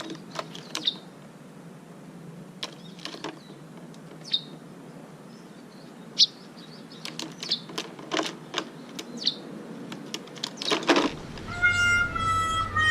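Small birds giving scattered short chirps, with a few sharp clicks between them. Music with held notes comes in about two seconds before the end.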